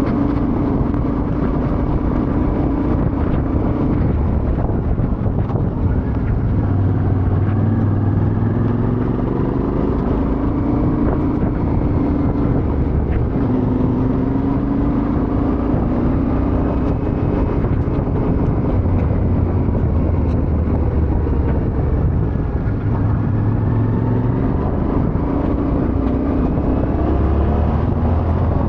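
Yamaha Ténéré 700's parallel-twin engine running under way, its revs rising and falling repeatedly as the motorcycle is ridden.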